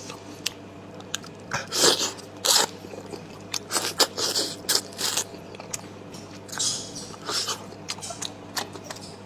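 A person chewing and biting food close to the microphone, in irregular crunchy bites, loudest around 2 s and again between 4 and 5 s.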